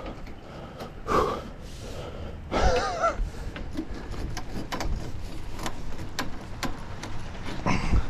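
A man's hard breaths and a wavering grunt of effort as he strains to lift a tall antenna mast, with scattered light clicks and knocks of the metal conduit shifting in its mounting pipe.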